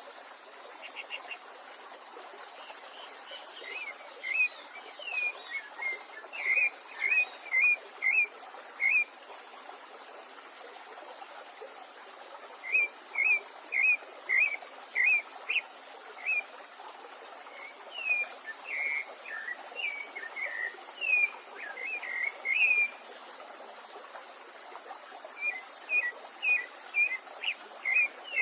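Songbird singing in bouts of short, quick chirped notes a few seconds long, with pauses of a few seconds between bouts, over a steady background hiss.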